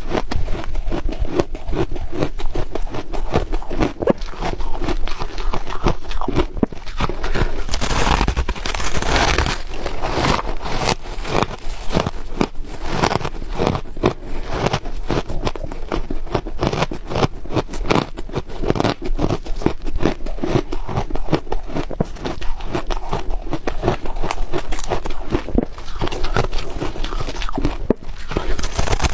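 Ice being bitten and chewed close to the microphone: continuous, rapid crunching and cracking with no pauses.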